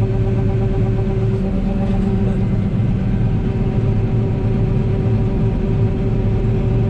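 John Deere 9760 combine running steadily: a constant engine drone with a steady low rumble and hum, unchanging throughout.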